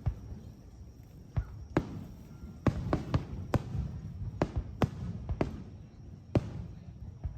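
Fireworks shells bursting overhead: a string of sharp, irregular bangs, some close together, over a low rumble.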